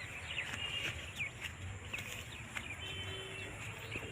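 Birds chirping: a string of short, quick calls, some sliding in pitch, with one briefly held high note about three seconds in, over a low steady background rumble.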